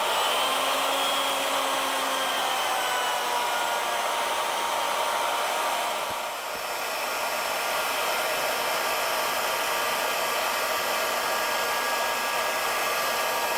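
Handheld wood router with a 1-inch two-flute straight cutter running at full speed and cutting a taper along wooden stock, a steady high whine with a brief dip in level about six seconds in.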